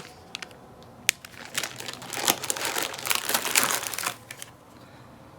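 Snack packet wrappers crinkling as they are handled. There are a few light clicks at first, then a run of crinkling in the middle that dies away near the end.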